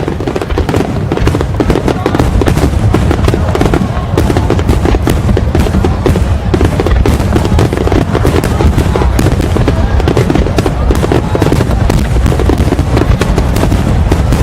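Fireworks display in a rapid, unbroken barrage: many shells bursting in quick succession with deep booms and crackle throughout.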